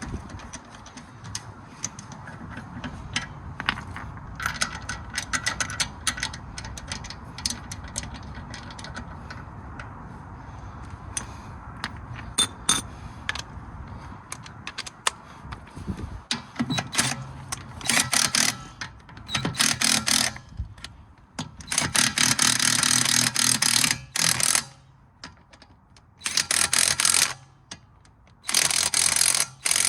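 Ratchet wrench clicking in repeated bursts of one to two seconds each, starting about halfway through. Before that there is a steady low rumble with scattered light clicks.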